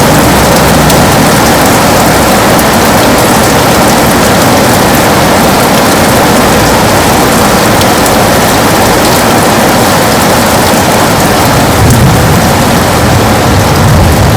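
Heavy rain falling on a window: a loud, steady, dense hiss of drops. A low rumble swells underneath near the end.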